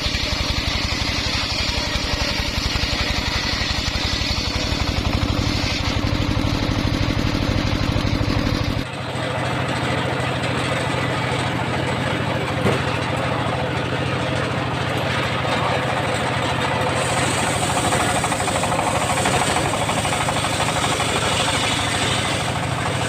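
An engine running steadily with a fast, even firing pulse; about nine seconds in the sound changes abruptly, the low pulse dropping away into a more even mechanical noise.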